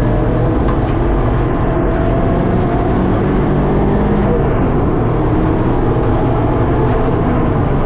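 Track-prepared car's engine running hard under load at speed, heard inside the bare, roll-caged cabin together with road and tyre noise.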